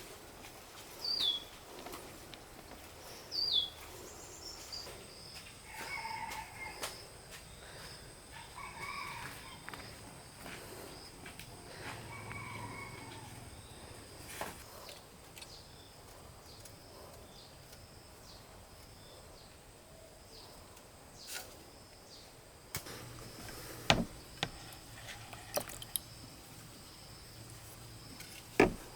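Outdoor rural ambience with birds calling: three quick falling chirps at the start, then a few longer calls, over a faint steady high insect drone. A few sharp knocks stand out, the loudest near the end.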